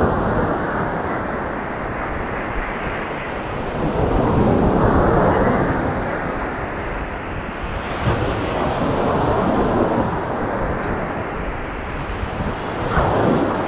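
Winter sea surf breaking and washing up a beach, a steady rush that swells up three times.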